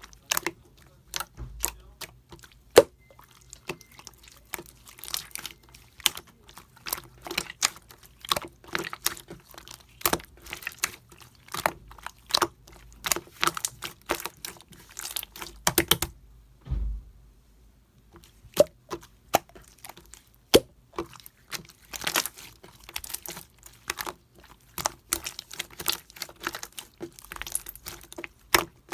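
Pink and clear mixed slime being pressed and squeezed by hand, giving a fast, irregular stream of sharp clicks and pops, with a short pause a little past halfway.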